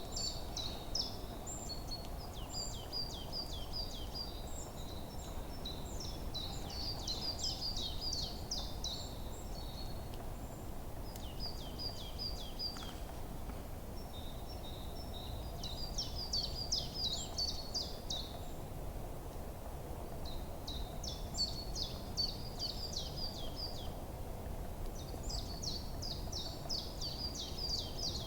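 A songbird singing over and over, in phrases of quick, high, down-sweeping notes a few seconds long with short pauses between, over a steady low background hiss.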